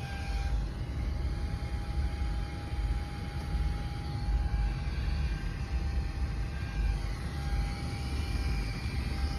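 Steady low rumble of the New York subway, with a thin steady whine held over it.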